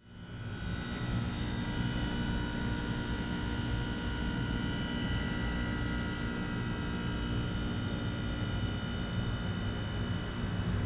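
2012 Trane XR13 2-ton heat pump outdoor unit running steadily, a low hum with a set of steady high-pitched whining tones over it.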